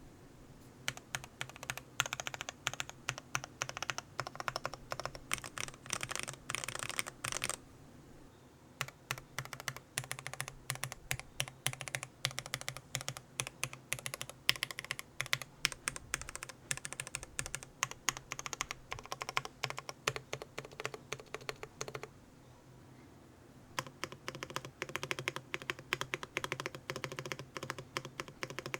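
Typing on a custom mechanical keyboard (CannonKeys Practice 65 v2 with lubed Gateron Milky Yellow linear switches and PBT keycaps): fast runs of keystrokes, pausing twice briefly.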